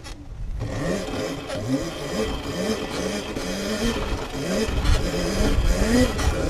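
Sur-Ron electric dirt bike riding around, its motor whine rising and falling over and over as the throttle is worked, over a low rumble of tyres and wind.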